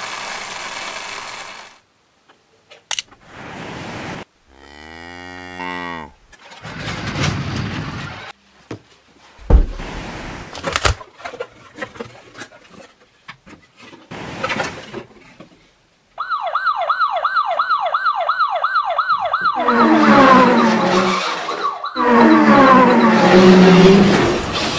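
A string of separate short sound effects: noise bursts, clicks and a falling tone sweep. About two-thirds of the way in comes a fast rising-and-falling siren, three to four cycles a second, followed by louder calls with sliding pitch.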